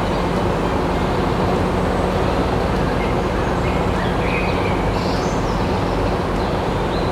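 Small motor of a homemade model construction machine running steadily: a dense whirring with a constant low hum.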